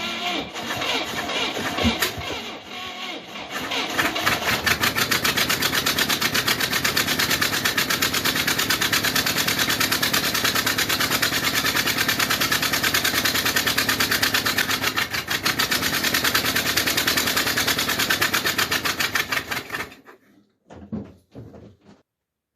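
UAZ engine during a hard cold start at −19°C: after a few seconds of irregular mechanical sounds, a fast, steady rhythmic pulsing begins about four seconds in and runs until it cuts off abruptly near the end, followed by a few knocks.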